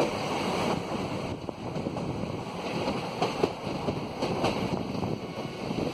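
Moving passenger train heard from an open coach doorway: wind rushing over the microphone over the steady rumble and rattle of the wheels on the rails, with a few short clicks about halfway through.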